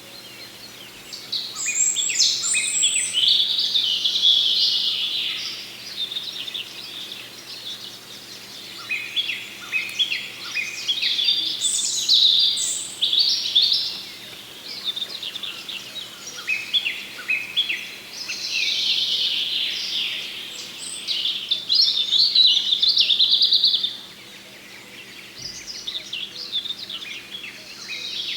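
Small songbirds singing in bouts of rapid, high chirping notes, each bout a few seconds long with short pauses between, over a steady low city hum.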